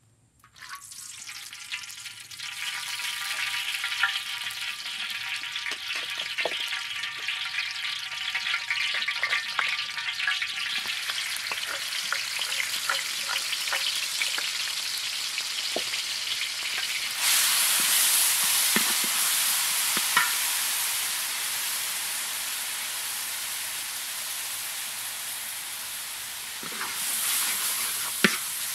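Chopped red chillies and garlic sizzling in hot oil in a large iron wok, with a spatula scraping and tapping against the metal as they are stirred. The hiss starts about half a second in, carries a faint steady high tone through the first third, and gets louder about two-thirds of the way through.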